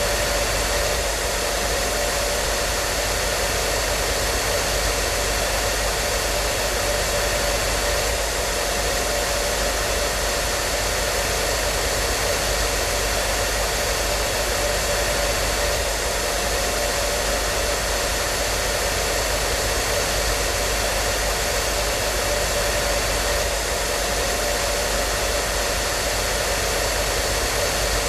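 Hair dryer running continuously: an even rush of air over a steady motor hum, with no change in pitch or level.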